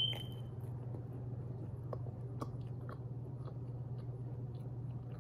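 A person chewing pizza: faint, scattered mouth clicks and smacks over a steady low hum.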